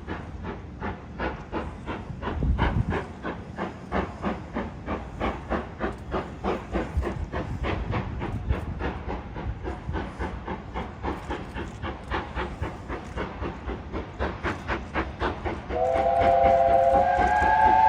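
BR Standard Class 5MT 4-6-0 steam locomotive 73082 Camelot working under steam, a steady chuff of exhaust beats that quicken slightly. Near the end its whistle sounds, held and louder than the exhaust.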